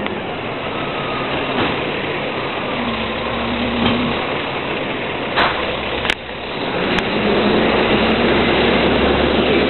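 Rear-loader garbage truck running, with two sharp knocks about five and six seconds in. It gets louder from about seven seconds on.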